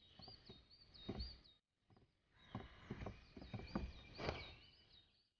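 Faint birdsong ambience of short repeated chirps, with soft rustles and thuds underneath, the loudest about four seconds in; the ambience drops out briefly about a second and a half in.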